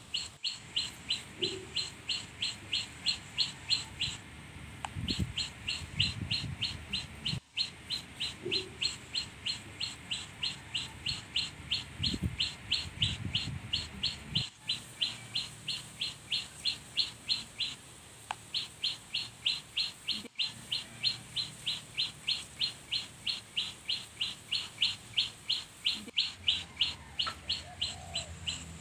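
A bird calling over and over: a steady run of short, high chirps, about three or four a second, with a few brief pauses.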